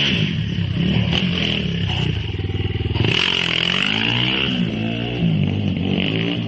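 Dirt bike engine revving up and down several times, its pitch rising and falling in swells.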